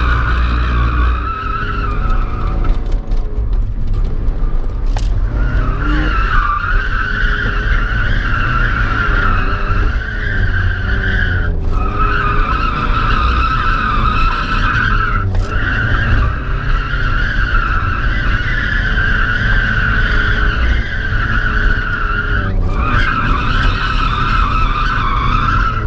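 Mazda Miata drifting: its tyres squeal in long sustained stretches while the four-cylinder engine revs up and down. The squeal drops out for a few seconds near the start and breaks off briefly three more times.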